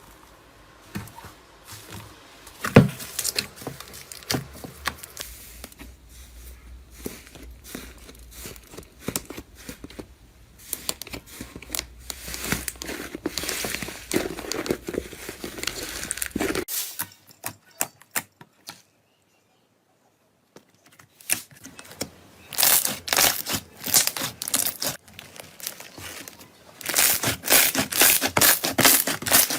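Crunchy material being squeezed, crushed and torn by hand, close to the microphone: dense crackling and crinkling that grows louder, breaks off into a few seconds of silence about two-thirds through, then returns as a run of rapid, loud crunches.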